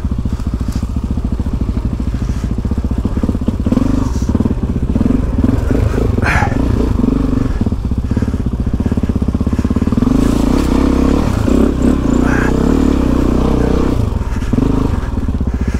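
Suzuki DR-Z400E's single-cylinder four-stroke engine running at low revs as the enduro bike crawls over rough forest ground, with the throttle opened a little a few times.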